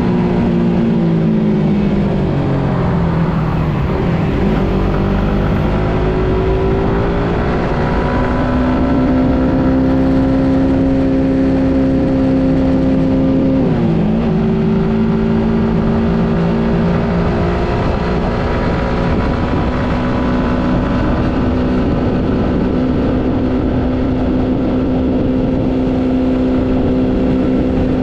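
Suzuki GSX-S150 motorcycle's single-cylinder engine under way. The revs fall off over the first few seconds, climb again, dip briefly about fourteen seconds in, then hold steady at cruising speed.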